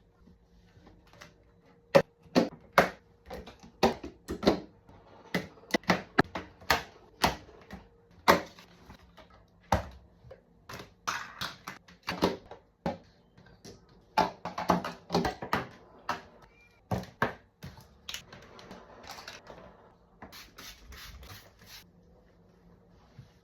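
Food containers, jars and fridge parts being handled and set down while a fridge is cleaned out: a string of irregular clicks and knocks, with a quick run of light taps near the end.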